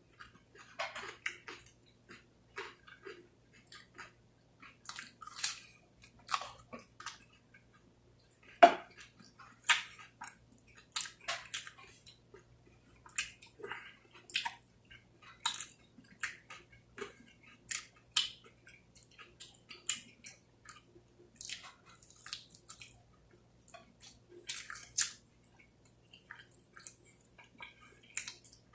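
Close-miked chewing and biting while eating chicken wings: irregular wet smacks, clicks and crunches, the loudest about nine seconds in.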